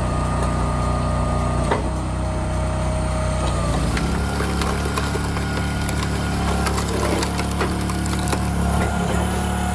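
Engine of forestry machinery running steadily, its drone changing pitch about four seconds in, with a few sharp knocks.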